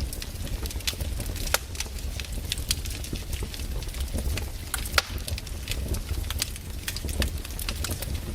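Wood fire burning, with irregular sharp crackles and pops over a low steady rumble; two louder pops, about a second and a half in and near the middle.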